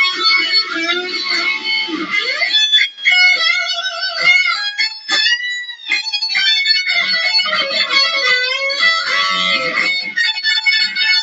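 Electric guitar shredding: fast runs of lead notes, with one held note bent up and down about halfway through.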